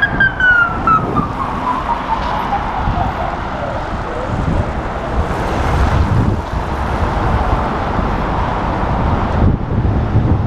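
A siren's tone gliding steadily down in pitch over the first four seconds and fading out, over dense city traffic noise and wind on the microphone.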